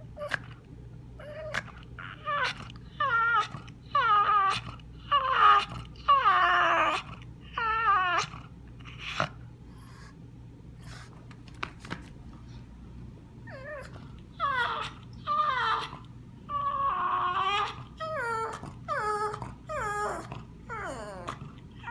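Pug making a series of short whining cries, each falling in pitch, in two bouts with a pause of a few seconds between them.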